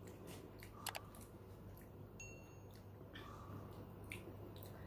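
Faint chewing of a mouthful of soto and rice, with a few light clicks of a metal spoon against a ceramic bowl, the last two near the end.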